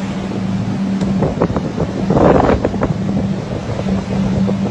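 Wind buffeting the microphone in gusts, strongest about two seconds in, over a steady low motor hum.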